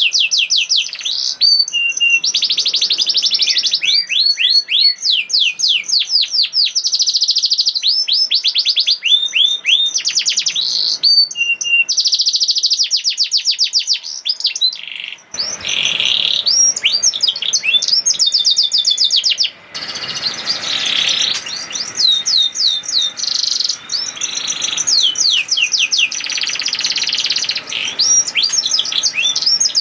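Domestic canary singing a long, unbroken song of fast high-pitched trills and rolls: runs of rapidly repeated notes, many sweeping down in pitch, one run after another. About halfway through, a low background hiss joins the song.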